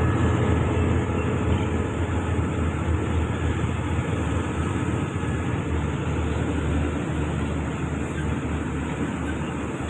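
Diesel train running past with a low engine rumble that gradually fades.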